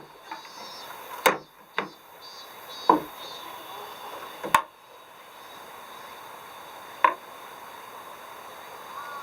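Five sharp, separate knocks, irregularly spaced, over a steady background hiss.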